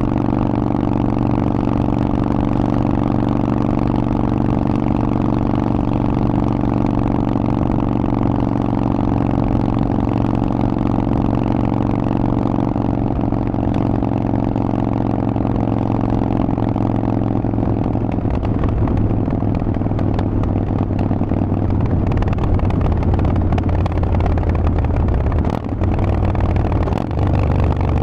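Harley-Davidson Forty-Eight's 1200 cc air-cooled V-twin running through a Vance & Hines aftermarket exhaust while riding, holding a steady note for most of the time. About two-thirds of the way through the note changes and gets rougher, and there are two brief dips near the end.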